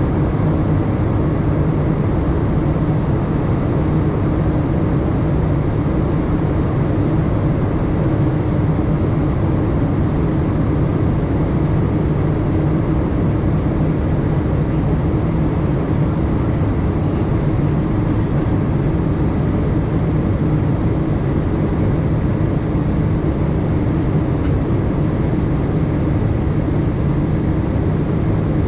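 Steady rushing and droning cabin noise of a Boeing 787-8 airliner in flight, heard from a passenger seat: engine hum and airflow at a constant level, with a few faint light clicks a little past halfway and once more later.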